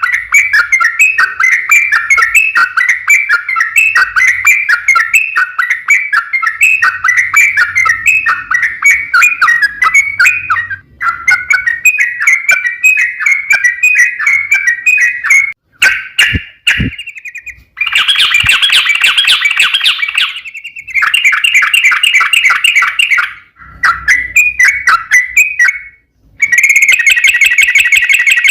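Yellow-vented bulbul (trucukan) song: a long run of rapid chattering notes, then broken into separate bursts with sudden stops and restarts after about halfway.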